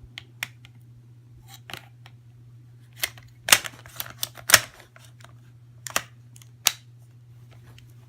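A rifle and its magazine being handled: a run of sharp, irregular clicks and clacks, thickest and loudest around the middle, over a steady low hum.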